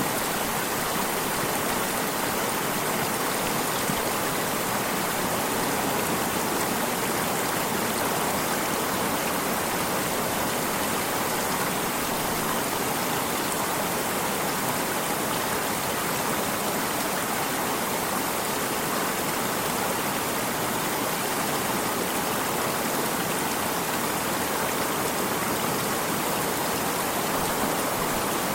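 Flowing stream water, a steady rushing noise with no breaks or changes.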